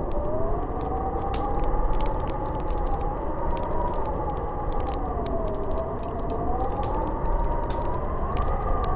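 Snowstorm wind howling, a whistling tone that slowly rises and falls over a steady rushing noise, with scattered light crackling clicks.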